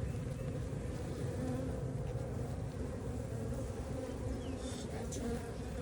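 Many honey bees buzzing steadily around an open hive.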